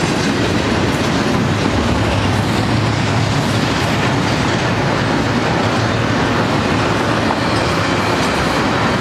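Double-stack container well cars of a BNSF intermodal freight train rolling past, with a steady, loud noise of steel wheels on the rails.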